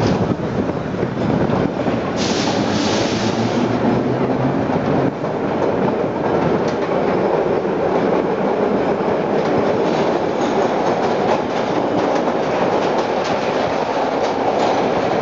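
A 1930s-era New York City subway train running on the rails, a steady rumble with faint rhythmic clicking from the wheels passing over rail joints. A brief hiss is heard about two seconds in.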